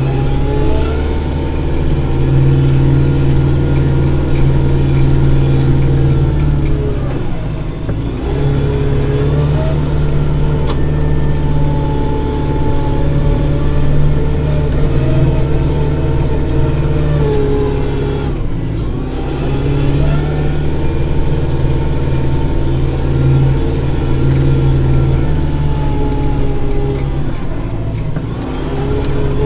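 Kubota tractor's diesel engine running steadily under load while working a snow blower, its pitch sagging briefly three times and recovering.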